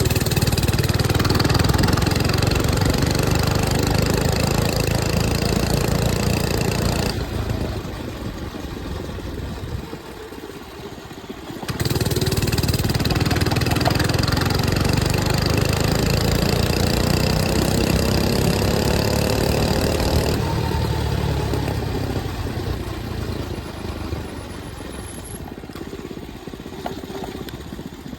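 105cc mini bike engine running under throttle while riding. It eases off about seven seconds in and picks up hard again around twelve seconds, the pitch rising as it accelerates, then tapers off over the last several seconds.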